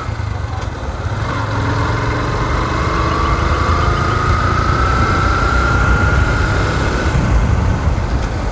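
Motorcycle engine running while under way, a steady low rumble mixed with wind noise, with a faint whine that rises slowly in pitch over several seconds as the bike gathers speed.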